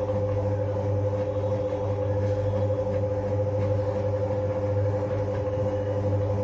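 IFB T2400 washing machine spinning with a steady hum and drone that does not change. This spinning noise is put down to a failing drum bearing and oil seal.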